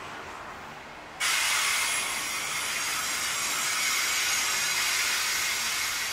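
Loaded coal train's hopper wagons rolling slowly past, with a loud, steady hiss that starts suddenly about a second in and holds for about five seconds before falling away at the end.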